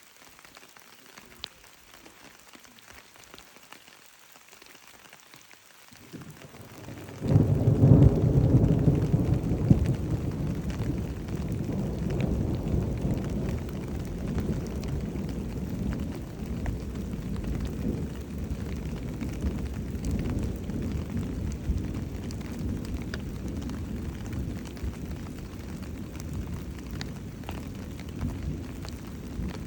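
Light rain pattering. About seven seconds in, a long rolling peal of thunder breaks in, deep and loud, then rumbles on and slowly fades while the rain continues.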